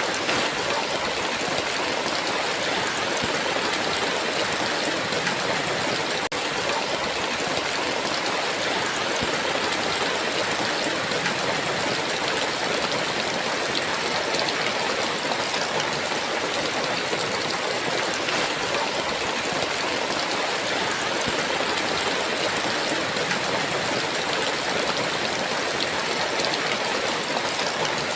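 Heavy rain falling in a steady downpour: an even, unbroken hiss with no thunder.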